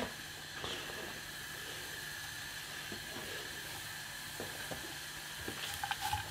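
Noodles and vegetables sizzling and steaming in a frying pan over high heat, a steady hiss with a few light clicks near the end.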